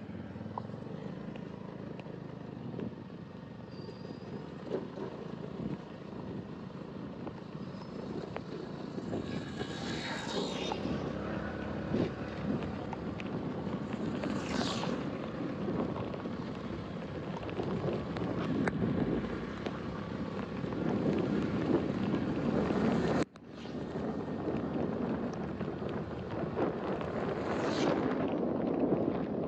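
Heavy rain and wind noise on the microphone, a dense rumble that builds gradually, with a few brief hissing swishes.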